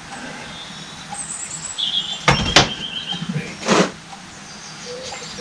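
Metal hydraulic pump parts being handled and knocked on a bench: two sharp knocks in quick succession about halfway through and another a second later, with a brief high squeak between them.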